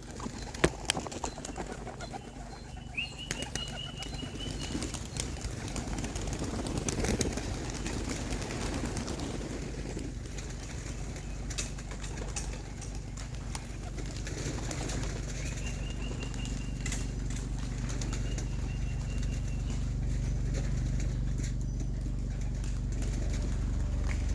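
Flight pigeons cooing and flapping their wings as they come in to the loft, with scattered clicks. A thin high whistle sounds twice, and a low steady hum grows toward the end.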